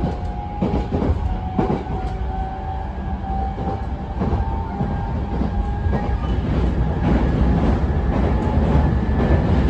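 Running noise heard inside an E233-series electric commuter train under way: a steady low rumble, with wheels clacking over rail joints about once a second and a steady whine. It grows louder over the last few seconds.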